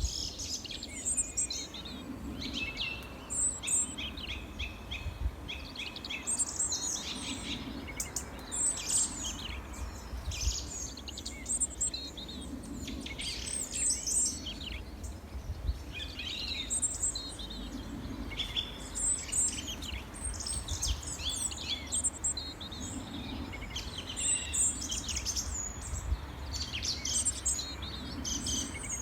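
Several small songbirds chirping and trilling at once, many short overlapping calls without pause, over a low steady rumble.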